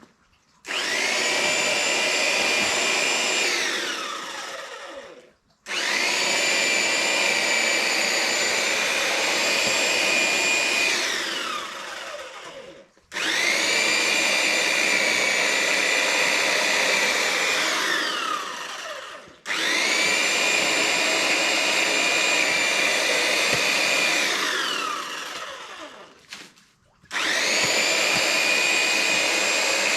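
Electric power tool motor cutting back lavender, run in five separate bursts. Each starts abruptly at full speed, holds a steady whine for several seconds, then winds down with a falling pitch when released; the last is still running at the end.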